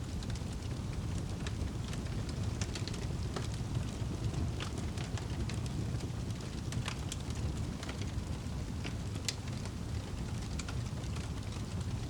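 Wood fire burning in a fireplace: a steady low rumble of the flames, with irregular sharp crackles and pops scattered throughout.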